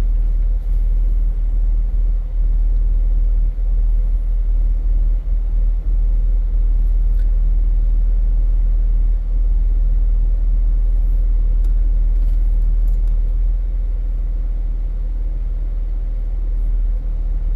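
Off-road vehicle's engine idling steadily, a constant low rumble with a few faint clicks over it.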